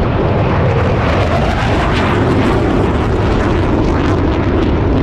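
Aircraft engine noise from a plane flying at an air show: a loud, steady rushing sound with no break.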